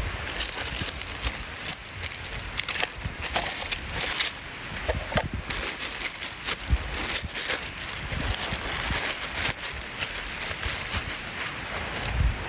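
Irregular rustling and scuffing, with uneven low rumbles of wind on the microphone.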